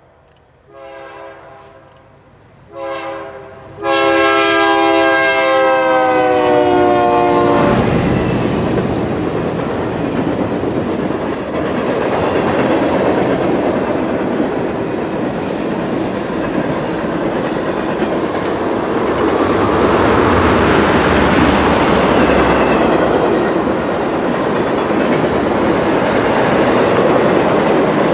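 A BNSF GE wide-cab diesel locomotive's multi-note air horn sounds a series of blasts, ending with a short blast and then a long one whose pitch drops as the locomotive passes, in the pattern of a grade-crossing signal. After that comes the steady rumble and wheel clatter of a loaded freight train's cars rolling by.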